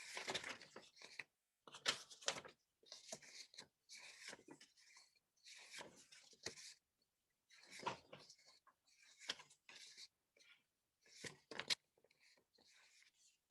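Faint, irregular rustling and handling noises in short scattered bursts, with a few sharper clicks among them.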